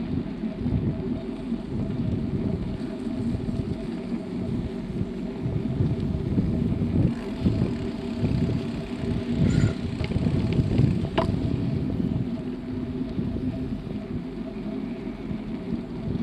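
Uneven rumbling wind and road noise from riding a bicycle, with a faint steady hum and a couple of brief clicks around the middle.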